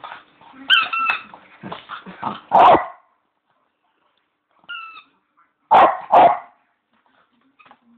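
Bichon barking: one loud bark about two and a half seconds in, then two in quick succession near six seconds. Between the barks a squeaky toy bone gives short, steady high squeaks, about a second in and again around five seconds.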